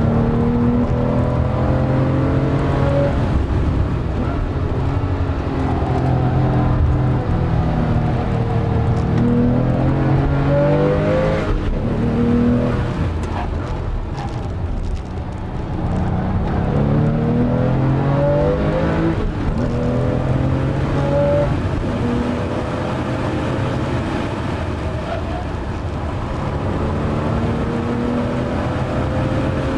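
Porsche 997 Carrera S's 3.8-litre flat-six, heard from inside the cabin under hard driving. Its pitch climbs as it accelerates and drops back at each gear change, with a lull about halfway through before it picks up again.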